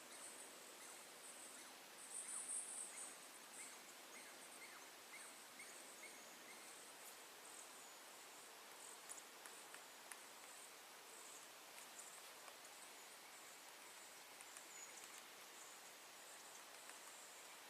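Faint outdoor ambience of high-pitched insect chirping, with a brief louder trill about two seconds in and scattered faint chirps and ticks.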